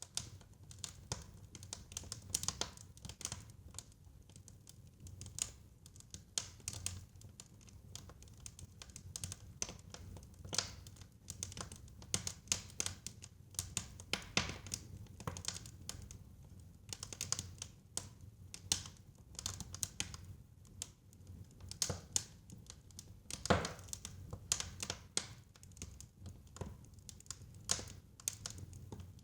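Wood fire crackling in a fireplace: irregular sharp pops and snaps over a low, steady rumble of flames, with one louder pop a little past the 23-second mark.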